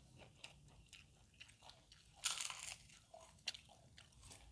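Close-up chewing and crunching of food, with many small wet clicks and a louder crunch a little over two seconds in.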